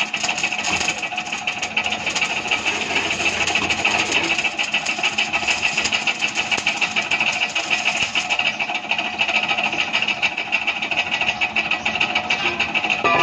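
A machine running steadily with a fast, even rattle and a hiss.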